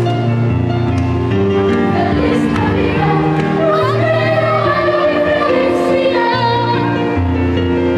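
Children's choir singing a Christmas carol in several parts over held low accompaniment notes.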